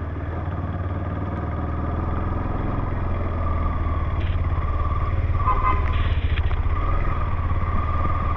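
Motorcycle engine running steadily at low revs, with a slight rise in loudness partway through.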